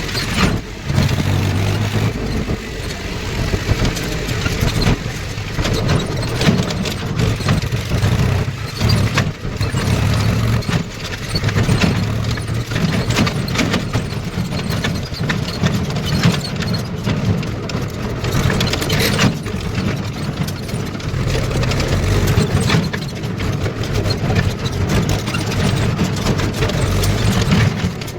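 Diesel engine running steadily, with scattered knocks and clatter over it.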